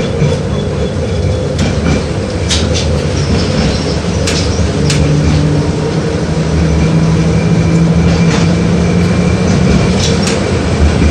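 LVS-86K tram running along the track, heard from inside the car: a continuous low rumble of wheels on rails, broken by scattered sharp clacks and rattles. A steady low motor hum joins for a few seconds in the middle.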